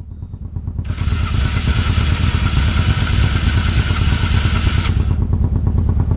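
Off-road vehicle engine running with a steady low throb, growing louder over the first second. A loud hiss sits over it from about a second in until about five seconds.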